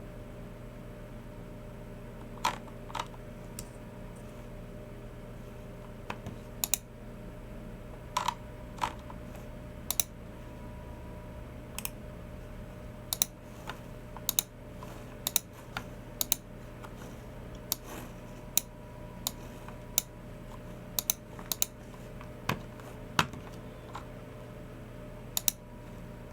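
Slow, irregular keystrokes on a Logitech MX Keys Mini keyboard mixed with Logitech G304 mouse clicks, single clicks and short clusters spaced a fraction of a second to a few seconds apart, over a steady low hum.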